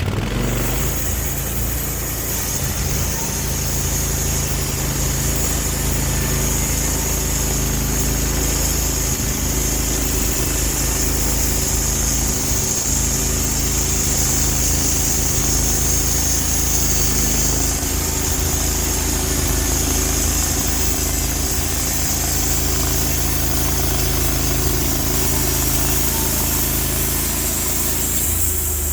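Portable band sawmill making a cut: the engine runs steadily under load beneath a high, even hiss of the band blade going through the log. The hiss drops away near the end as the cut finishes.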